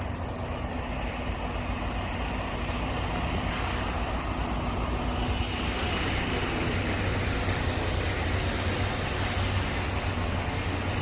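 Steady low rumble of running vehicle engines with road noise, growing a little louder partway through.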